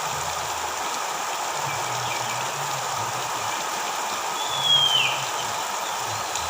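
Oriental magpie-robin giving one clear, falling whistle about four and a half seconds in, with a few fainter short notes earlier, over a steady hiss.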